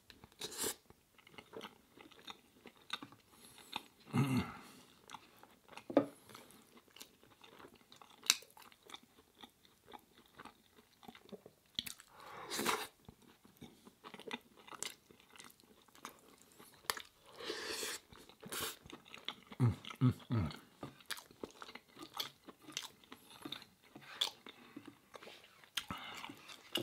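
Close-miked chewing and biting of baguette with curry: many small wet mouth clicks and smacks, with a few louder bites scattered through.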